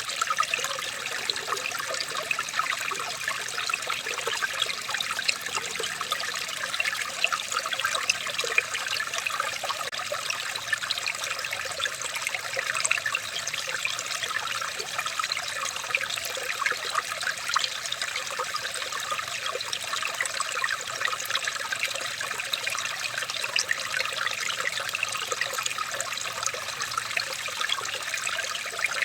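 Running water trickling and babbling steadily, like a small stream over stones, a continuous bright splashing with many tiny droplet sounds.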